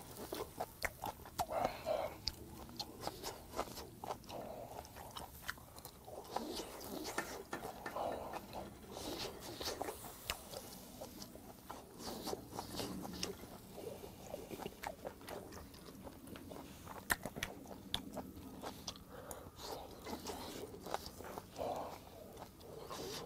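A person chewing grilled beef offal: a run of soft, wet mouth clicks and smacks.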